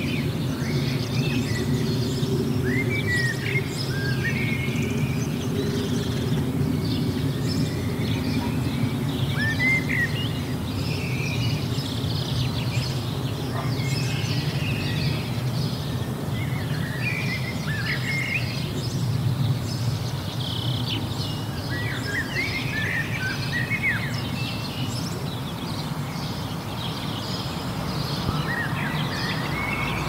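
Several songbirds chirping and whistling in short, scattered calls over a steady low background rumble. A broader hiss comes in near the end.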